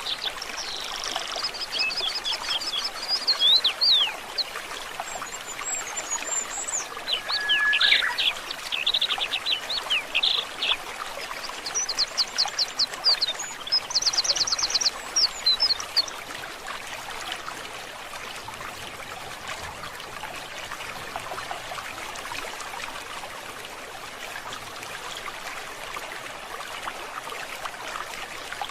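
Songbirds singing in quick trills and whistled phrases over a steady trickle of running stream water; the birdsong stops a little past halfway, leaving only the water.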